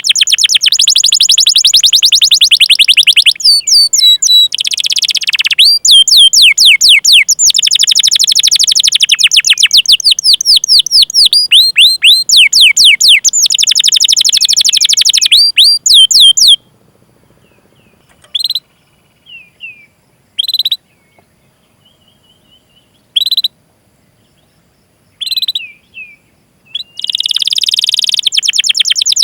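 Domestic canary singing: fast rolling trills and long runs of quick down-slurred 'cuit cuit' chirps, then a sparse stretch of single chirps with gaps between them, and a fast trill starting again near the end.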